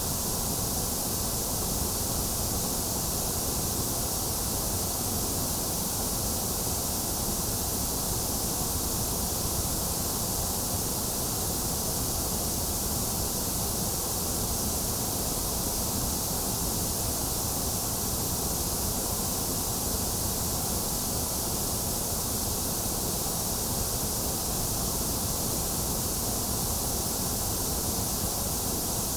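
Steady electronic white noise for baby sleep: an even, unchanging hiss with a low rumble under it and no breaks or events.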